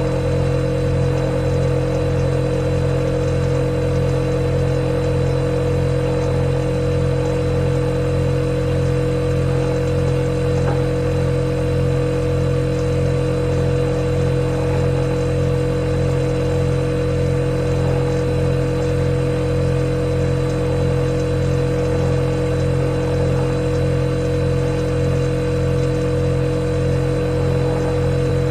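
Refrigerator compressor running with a steady, even hum and a constant higher tone above it.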